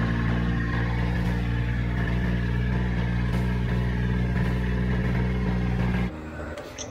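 Vehicle engine running at a steady speed, heard from inside the vehicle: a low, even hum with no change in pitch that cuts off abruptly about six seconds in.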